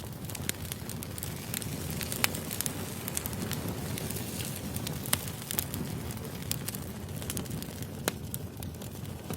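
Firewood burning: a steady low rumble of flames with frequent small crackles and pops, and three louder snaps.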